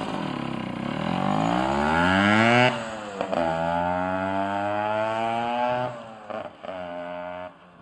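Yamaha FS1E two-stroke moped engine pulling away hard, its revs climbing then dropping sharply at each gear change, about 3 and 6 seconds in. After one more short climb, the sound falls away near the end.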